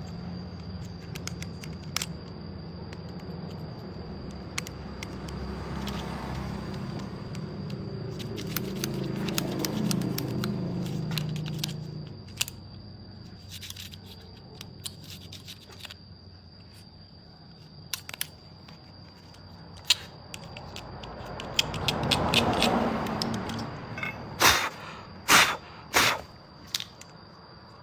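Workshop handling noises: scattered clicks and scrapes, with a low rumble like a passing vehicle in the first half and several sharp knocks near the end.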